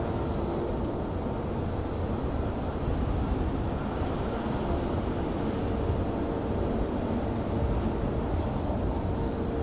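Railyard ambience: a steady low rumble with a constant thin high whine over it, and two brief faint high chirps about three and eight seconds in.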